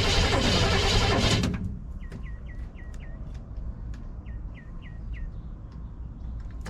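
A loud, steady noise stops abruptly about a second and a half in. A small bird then chirps in short runs of quick, repeated calls, with a few faint clicks.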